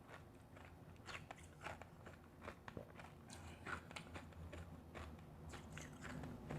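Mouth biting and chewing refrozen powdery ice close to the microphone: soft, irregular crunches and crackles.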